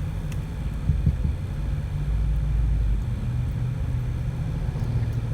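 A van's engine running, a steady low rumble heard from inside the cabin, with a couple of light knocks about a second in.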